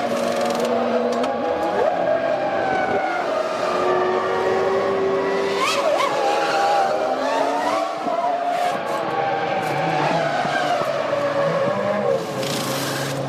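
Formula One cars' V10 engines at racing speed, several engine notes at once rising and falling in pitch as the cars accelerate, shift and brake, with one sharp rise in pitch about six seconds in.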